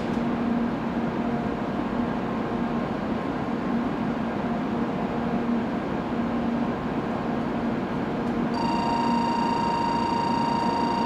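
Steady hum of a 700 series Shinkansen standing at the platform. About three-quarters of the way through, a steady electronic tone begins and holds: the platform's departure signal, which sounds just before the train leaves.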